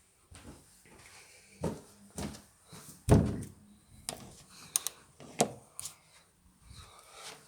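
A series of knocks and thumps with a few sharp clicks. The loudest, heaviest thump comes about three seconds in.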